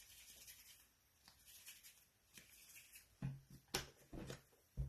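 Faint rustling and light ticks of hands handling foam clay and craft tools, with a few short, louder low sounds in the last couple of seconds.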